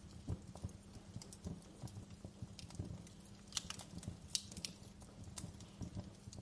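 Wood fire crackling in a fireplace: irregular sharp pops and snaps of uneven strength over a low steady rumble, with a cluster of sharper pops a little past the middle.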